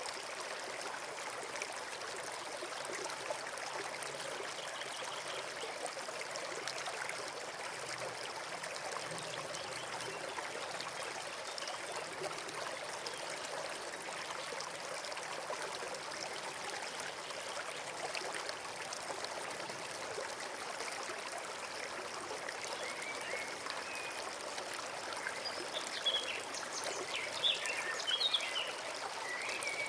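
Forest brook flowing steadily with a continuous babbling rush. A few short bird chirps come in near the end.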